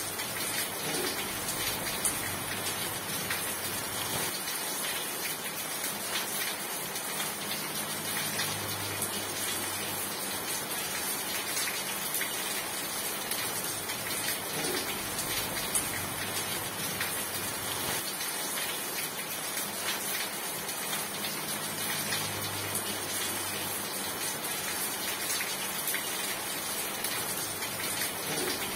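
Steady rain falling, a constant hiss with dense pattering drops.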